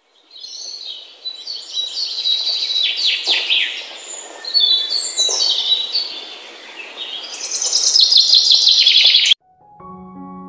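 Birds chirping and singing, several high calls overlapping, with a fast trill that builds before the song cuts off abruptly about nine seconds in. Soft piano music starts just after.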